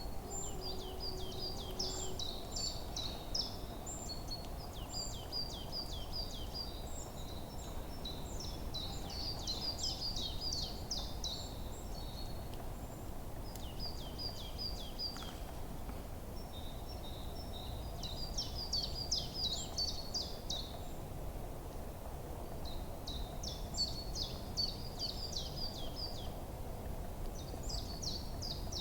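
Forest birds singing: bouts of quick, high, repeated chirping phrases several seconds long, broken by short pauses, over a steady low background rumble.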